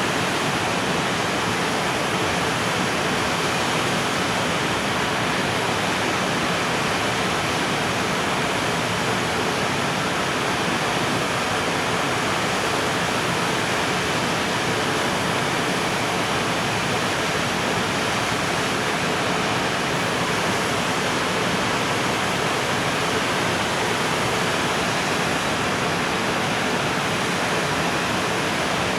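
Steady, even rolling noise of a long container freight train's wagons passing on the rails, with no clicks, horn or breaks.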